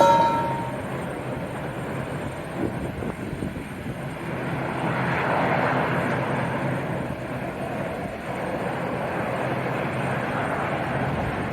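Jet airliner engines running as heard from an airport observation deck: a continuous roar that swells about five seconds in and eases again. A short ringing tone sounds right at the start.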